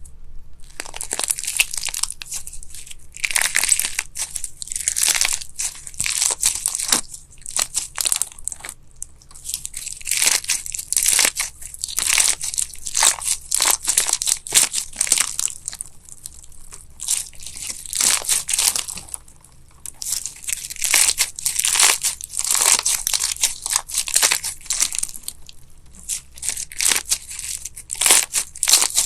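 Crunchy slime being pressed and squished, giving repeated runs of crisp crunching and crackling with short pauses between them.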